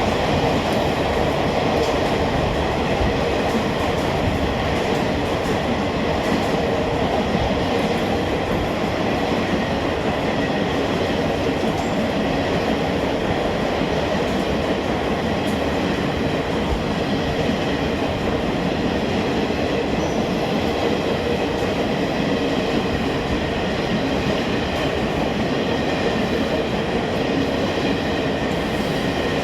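Maharajas Express passenger train running past at speed: a steady, loud rush of wheels on rails that holds without a break.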